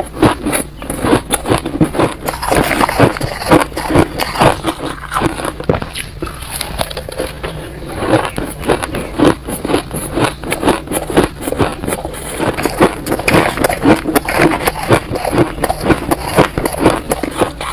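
Close-miked biting and chewing of soft, chunky freezer-frost ice: a dense, irregular run of crackling crunches throughout.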